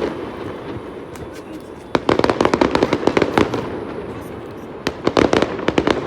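Fireworks going off in rapid bursts of sharp crackling bangs, two clusters about two and five seconds in, over a steady background of distant popping.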